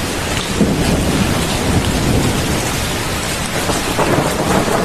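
Storm of strong wind and rain: a steady, loud rush of noise, heaviest in the low end.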